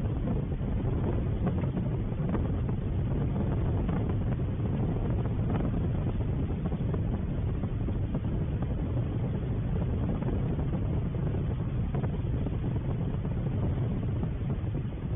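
Wind buffeting an outdoor camera microphone: a steady low rumble.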